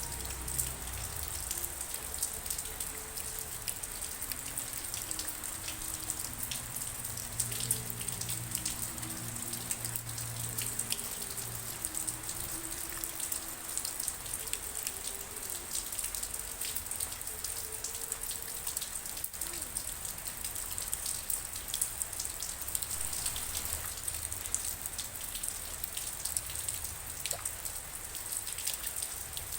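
Steady rain falling, with many separate drops ticking sharply against a surface.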